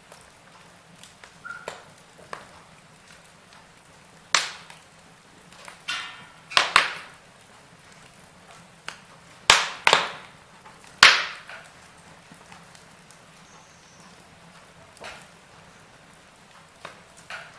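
Wood fire crackling: scattered sharp pops and snaps, several loud ones in quick succession in the middle, over a soft steady hiss.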